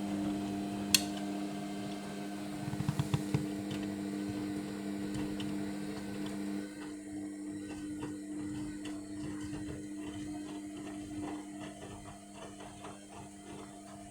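Indesit washing machine in its main wash, its drum motor running with a steady hum. There is a sharp click about a second in and a quick run of knocks around three seconds. About halfway through, part of the hum drops out and the sound turns more uneven, with soft irregular ticks.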